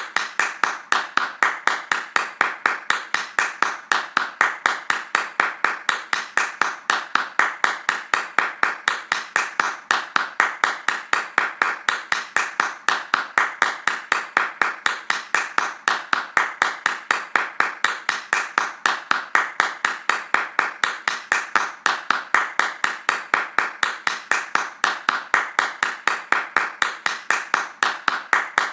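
Fast hand clapping in a steady, even rhythm of about five claps a second, with no pauses.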